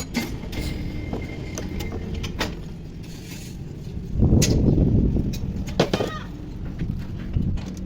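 Metal clinks and knocks of tools and parts being worked on a tractor gearbox, with a louder low rumble for about two seconds from about four seconds in.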